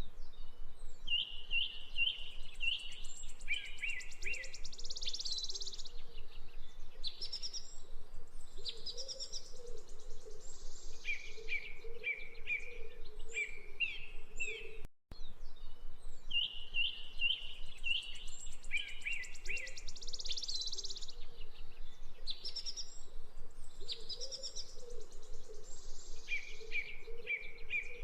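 Wild birds chirping and trilling in short, repeated phrases over a steady outdoor background. The same stretch of birdsong plays twice, with a brief dropout about halfway through, as a looped recording.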